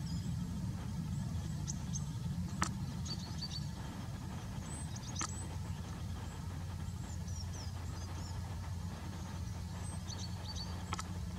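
Small birds giving short, high chirps scattered throughout, over a steady low rumble, with a few sharp clicks.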